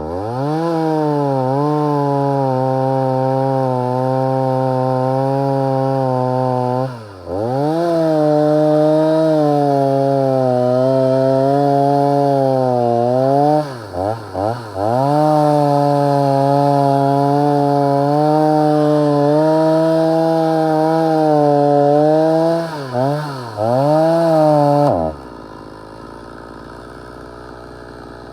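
Stihl MS 290 two-stroke chainsaw held at full throttle in long stretches, cutting dry wood, with the throttle let off and snapped back on a few times so the pitch dips and climbs again. About three seconds before the end the engine note drops away abruptly, leaving a quieter steady hum.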